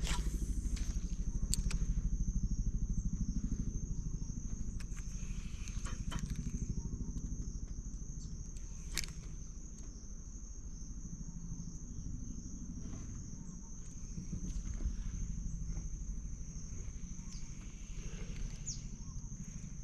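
Steady high-pitched insect drone from the creek bank, over a low continuous rumble, with a few sharp clicks scattered through.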